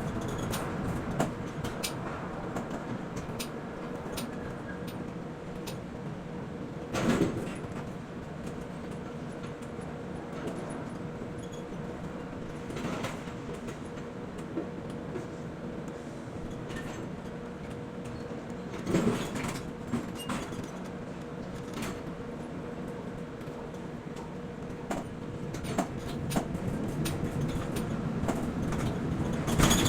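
Steady hum of container port machinery with a held tone, overlaid by light metallic knocks and heavier clanks that come roughly every six seconds.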